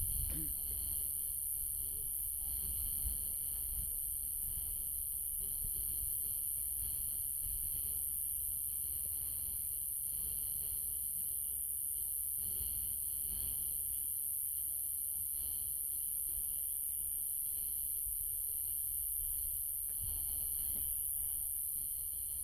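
Night insect chorus of crickets, a steady high-pitched trilling with fainter steady tones lower down, over a low rumble.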